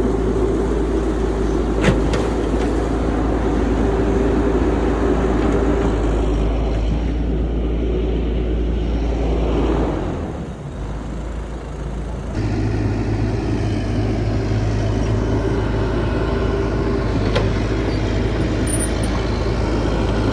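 CAT 312 hydraulic excavator's diesel engine running steadily, with a sharp knock about two seconds in. The sound dips for a couple of seconds around the middle, then comes back with a different engine tone.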